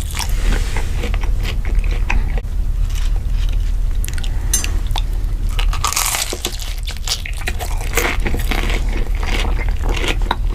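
Loud, crunchy chewing and biting close to the microphone, a dense run of irregular crunches and clicks, over a steady low hum.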